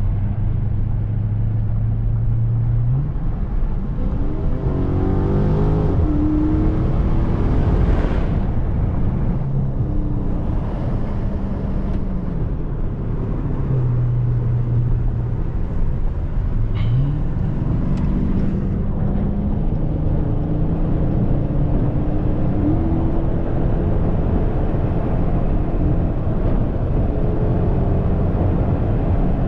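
Dodge Charger's 392 HEMI V8 heard from inside the cabin under hard acceleration on the highway. The engine note climbs steeply about three seconds in and again around sixteen seconds in, stepping up and falling back between, over steady road and tyre noise.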